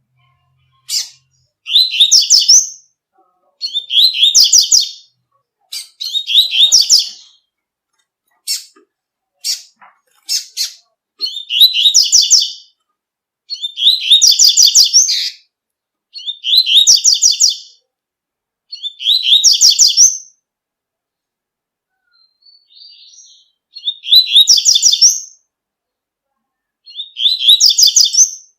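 Double-collared seedeater (coleiro) singing the tui-tui song type: short, fast, high buzzy phrases of about a second each, repeated every two to three seconds, with single sharp chip notes between some phrases.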